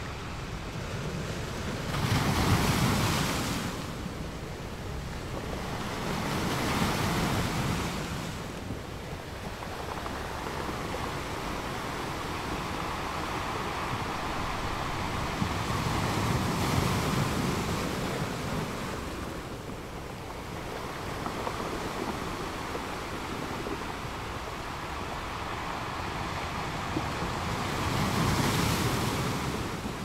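Ocean waves breaking: a continuous rush of surf that swells louder four times as waves crash, near the start, around seven seconds, around sixteen seconds, and just before the end.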